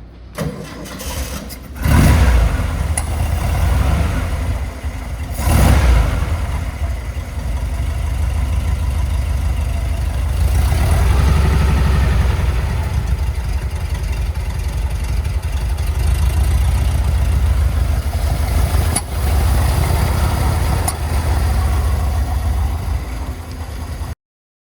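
1960 Porsche 356B's 1.6-litre Super 90 air-cooled flat-four cold-started: the starter cranks briefly, the engine catches about two seconds in, takes a short rev near six seconds, then settles into a steady cold idle.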